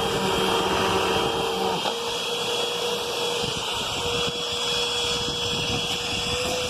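Hoover UH71250 Whole House Rewind upright vacuum cleaner running, a steady motor whine whose pitch rises slightly near the end.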